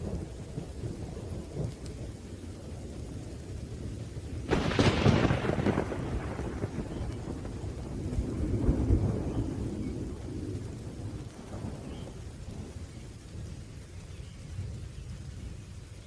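Thunderstorm: continuous low rolling thunder over rain, with a sharp thunderclap about four and a half seconds in that rumbles away over a couple of seconds, and a further swell of rumbling a few seconds later.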